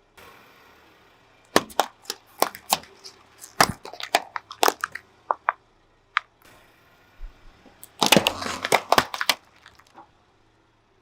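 Car tyre rolling over and crushing brittle objects: a run of sharp cracks and crunches, then a dense burst of crunching about eight seconds in.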